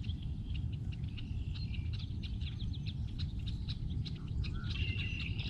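Small birds chirping in short, rapid high notes, with a steady high trill that comes in near the end, over a low rumble of wind on the microphone.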